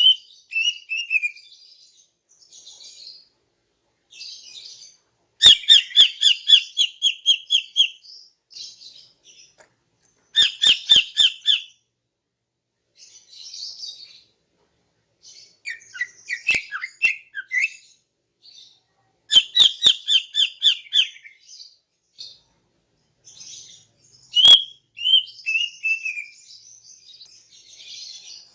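Female greater green leafbird (cucak ijo) calling: fast trills of sharp, high notes in bursts of one to two seconds, repeated every few seconds, with softer chatter between.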